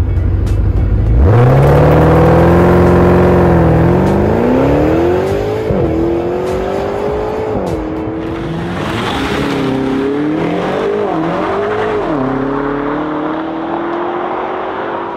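A V8 engine rumbles at idle, then launches hard about a second in. The engine note climbs and drops back through a string of upshifts as the car pulls away. In the second half another V8 car accelerates, its note again rising and falling with gear changes.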